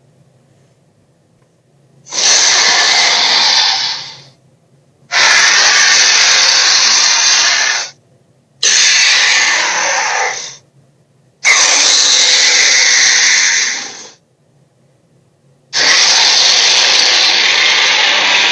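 Five loud, harsh dinosaur roar sound effects, each lasting two to three seconds and separated by short pauses.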